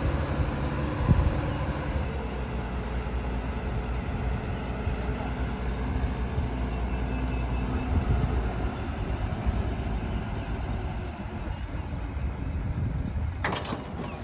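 Heavy engine running steadily with a low hum, and a sharp knock near the end.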